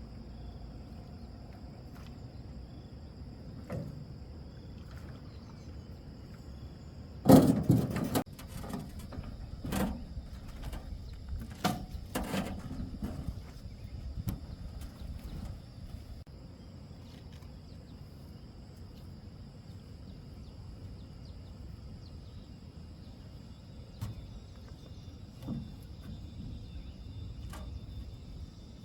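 A steady high-pitched insect drone over low outdoor background noise, broken by a cluster of sharp knocks and clatters about seven to thirteen seconds in, with a few lighter knocks later.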